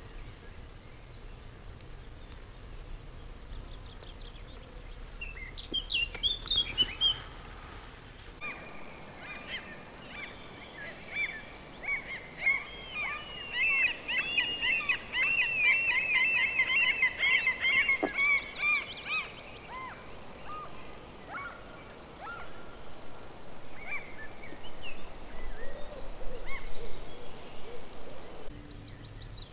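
Wild birds singing and calling: a few high calls, then a long run of rapid, chattering song, followed by scattered single calls.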